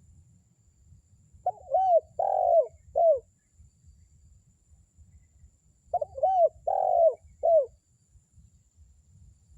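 Spotted dove cooing: two phrases of four coos each, the second coming about four and a half seconds after the first.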